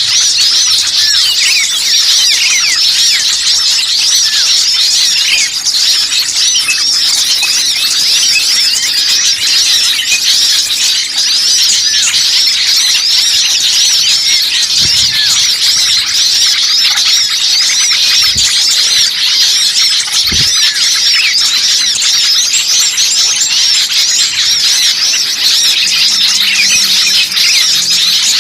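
Dense chorus of many small songbirds chirping and calling over one another, high-pitched and unbroken: a noisy small-bird lure recording meant to draw wild birds in.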